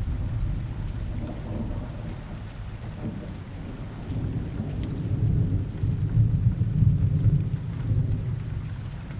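Steady rain with low rolling thunder rumbling underneath; the rumble eases off, then swells again about five seconds in.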